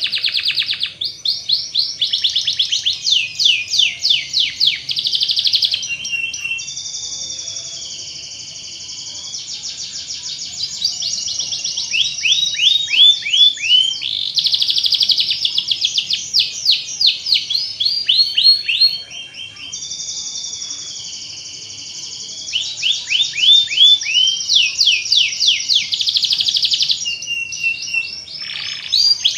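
Domestic canary singing a long, unbroken song: fast trills of rapidly repeated chirping notes, alternating with smoother, steadier rolling trills.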